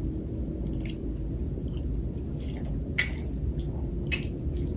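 A person chewing food close to the microphone, with several short wet mouth clicks and smacks scattered through the chewing, over a steady low background hum.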